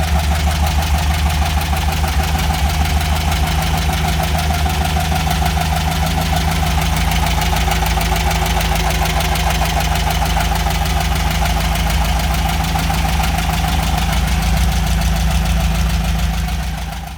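VW Fusca's air-cooled flat-four engine idling steadily with a fast, even pulse and a dry scraping noise, as if something rotating inside the engine is rubbing or running dry; the owner suspects the oil pump gears or a dry, tight distributor shaft.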